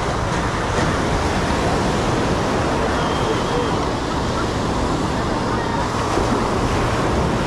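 Beach ambience: steady noise of ocean surf, mixed with the voices of people around.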